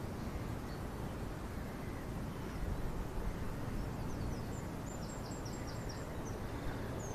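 Steady outdoor background noise, with a faint bird call, a quick run of about six short high notes, about four to six seconds in.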